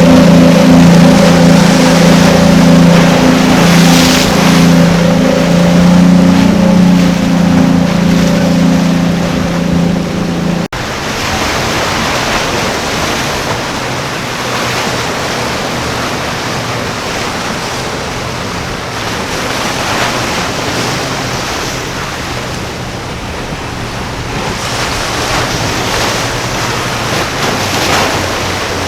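A powerboat's engines drone steadily and loudly, then cut off suddenly about a third of the way in, leaving the wash of surf and waves with wind on the microphone.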